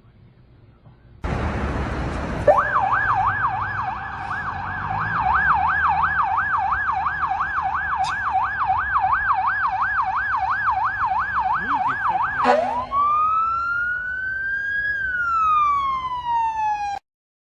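Emergency vehicle siren sweeping rapidly up and down in a fast yelp, switching near the end to one slow rising-and-falling wail before cutting off, over steady road noise.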